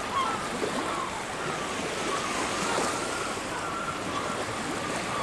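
Steady wash of ocean surf, with repeated short, gliding bird cries over it.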